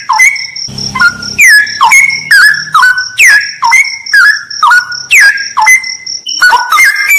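Straw-headed bulbul (cucak rawa) singing loud whistled phrases that swoop down and level off, repeating about twice a second, over a steady high pulsing buzz.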